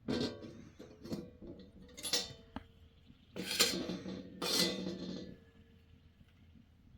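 Metal clinking and ringing in several bursts over about five seconds, with a ring that dies away after the last one.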